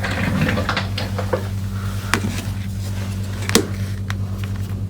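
Small plastic clicks and scrapes as a small USB transmitter is handled and opened on a workbench: a cluster of scraping clicks in the first second and a half, then two sharp single clicks. A steady electrical hum runs under it.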